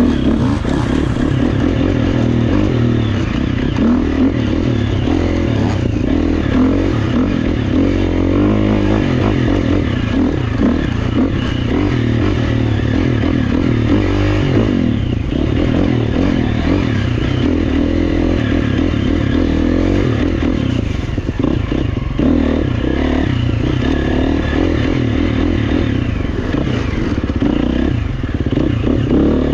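Dirt bike engine, the camera rider's GasGas EX350F four-stroke, running hard on a trail, revving up and down continuously through gear and throttle changes, with clatter and scraping from the bike over rough ground.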